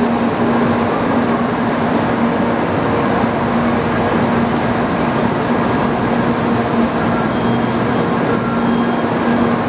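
Steady hum and whir of a Shinkansen train standing at the platform, its onboard equipment running at a constant level. A few brief, faint high electronic tones sound near the end.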